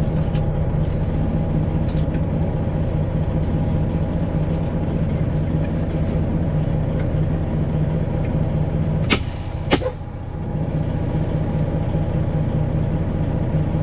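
Straight-piped Detroit Diesel 12.7 in a Freightliner Classic XL idling steadily, with two short sharp hisses of air about nine seconds in, after which the drone dips briefly.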